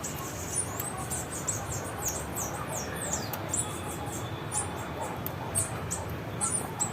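Small songbirds chirping rapidly: many short, high-pitched notes, several a second, some sliding downward, over steady background noise.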